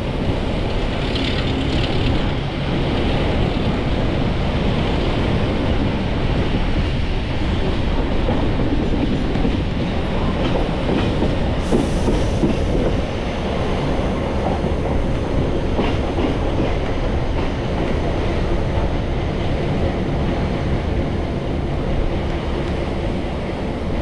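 A heritage railway carriage running along the line, heard from on board, with a steady rumble of wheels on rails. A brief sharp noise cuts through about twelve seconds in.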